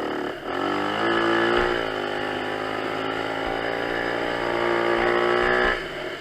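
Kawasaki KX250 dirt bike engine revving up about half a second in, then running fairly steadily under way. The sound drops off sharply near the end.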